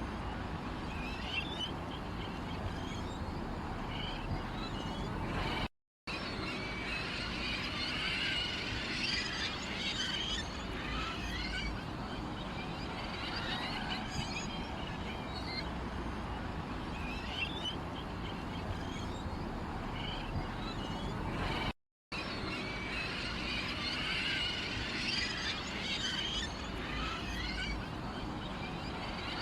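Sparrows and other small birds chirping and twittering in a dense chorus, with pigeons cooing low underneath. The sound cuts out to silence twice, briefly.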